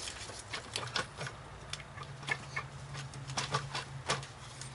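Irregular clicks and knocks of the intake manifold on a 2003 Honda Civic's 1.7 L engine being rocked and pulled against its mounting studs, with a steady low hum underneath. The manifold is still held by something and does not come free.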